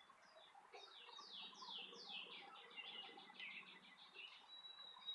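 Faint bird song: a string of quick high downward-sweeping whistles, running into a rapid trill, then a single held high note near the end.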